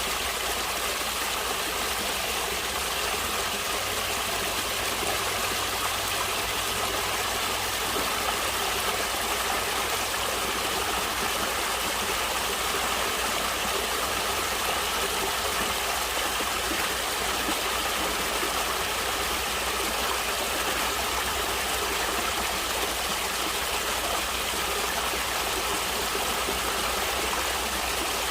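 Stream water flowing and rushing steadily, an even wash of sound with no changes.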